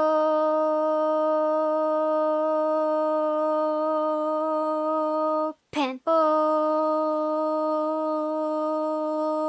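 A voice holding a long, dead-steady "oh" vowel on one pitch, the rounded-lip sound practised for the word "open". It breaks once, a little over five seconds in, for a quick sliding syllable, then holds the same note again.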